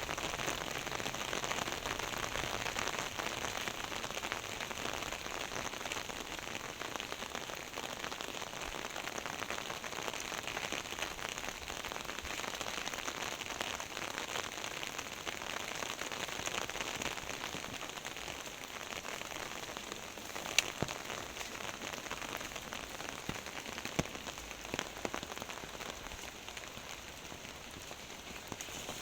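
Heavy rain falling steadily as a dense, even hiss, with a few sharp drip impacts in the last third.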